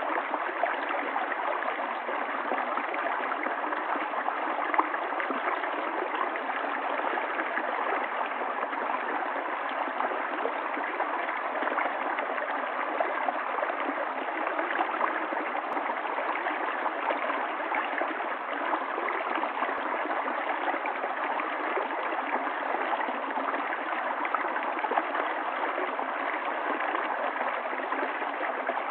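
Running water of a stream, a steady, unbroken rush with no change.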